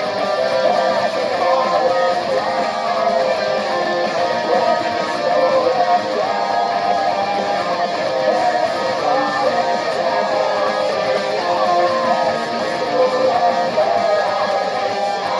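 Electric guitar playing a rock song, a moving melody line over continuous chords, with no singing.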